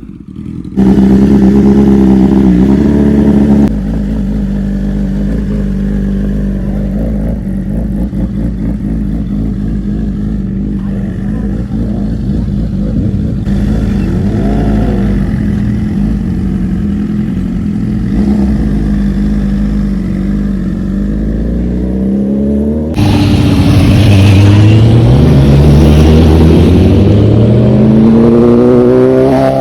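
Honda CBR-1000RR Fireblade's inline-four engine running, with its pitch jumping abruptly several times. In the last quarter it gets louder and climbs steadily in pitch as the bike accelerates.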